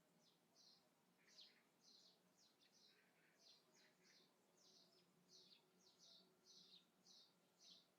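Faint birdsong: one bird repeats short, high chirps about twice a second, with a few lower notes from another bird mixed in.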